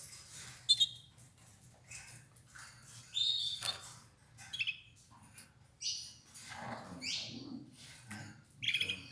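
Domestic canaries giving short chirping calls every second or so, with a longer call about three seconds in.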